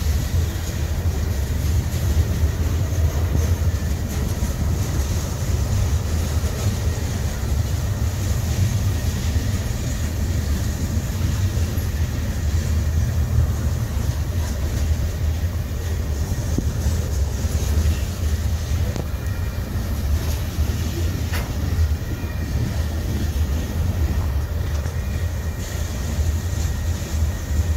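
Norfolk Southern freight train with its diesel locomotives close by, giving a loud, steady low rumble.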